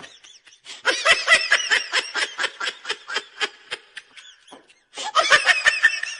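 A person laughing hard in rapid, high-pitched bursts of about four a second, in three bouts with short pauses for breath.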